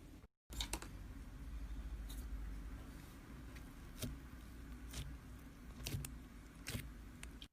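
Slime being handled, with about seven faint, short clicks and pops spread out over a low steady hum.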